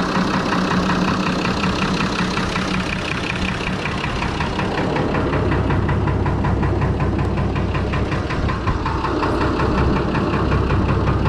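Fordson Major tractor's swapped-in six-cylinder Perkins diesel engine idling steadily with an even beat, described as "so smooth". A deeper low rumble comes in about five seconds in.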